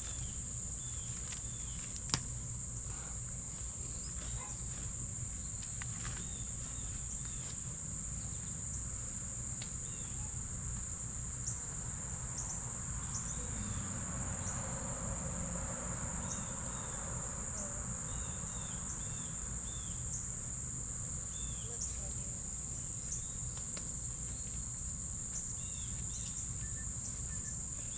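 Steady high-pitched chorus of insects, crickets or similar, with scattered faint short chirps over a low outdoor rumble; a single sharp click about two seconds in and a faint wash of noise swelling in the middle.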